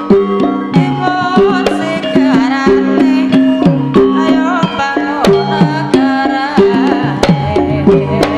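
Javanese gamelan music for a lengger dance: ringing metal-keyed tones over quick hand-drum strokes in a steady rhythm, with a wavering melody line above.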